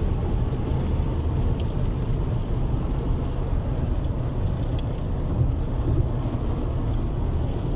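Steady rumble of a car driving on a wet road in heavy rain, with rain falling on the car.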